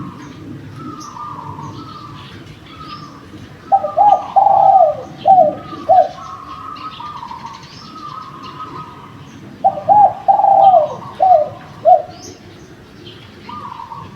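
Spotted dove cooing: two loud phrases of about five notes each, one about four seconds in and one near ten seconds, while another dove coos more faintly throughout. Small birds chirp faintly in the background.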